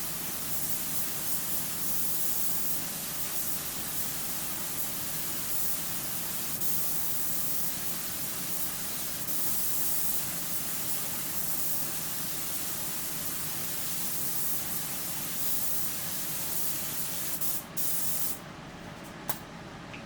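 Automotive paint spray gun hissing steadily as it lays on a sixth coat of paint thinned with a little extra thinner. The hiss breaks off briefly near the end, then stops, followed by a single click.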